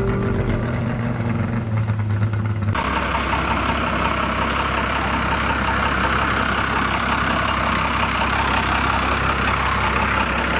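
Car engine idling steadily, then an abrupt switch about three seconds in to a different, noisier engine running steadily.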